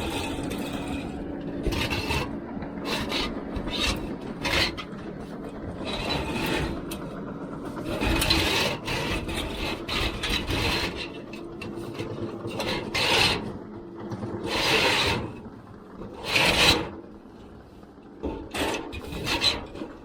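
Metal chimney liner pipe scraping and rubbing against the chimney flue as it is fed down, in irregular rasping strokes with several louder scrapes in the second half, over a steady low hum.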